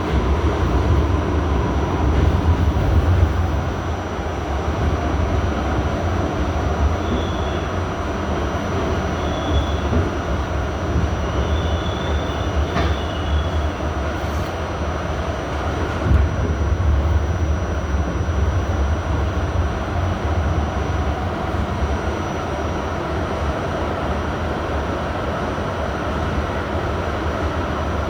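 R68A subway car running at speed, heard from inside the car: a steady low rumble of steel wheels on rail. A few short faint wheel squeals come between about 7 and 13 seconds in, and there are single knocks, likely over rail joints, at about 13 and 16 seconds.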